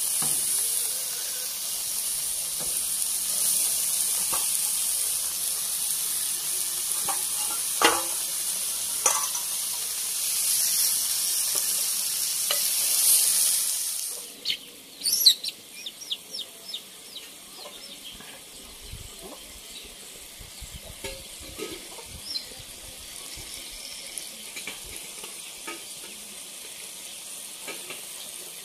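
Chicken pieces frying in oil in a cast iron skillet: a loud, steady sizzle with a few sharp pops. About halfway through it drops to a much quieter sizzle, with light clicks and taps as sauce is brushed on.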